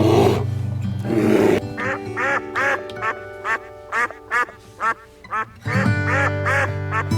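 A harsh, roar-like animal call for the first second and a half, then a quick run of duck quacks, about two to three a second, over background music with long held notes.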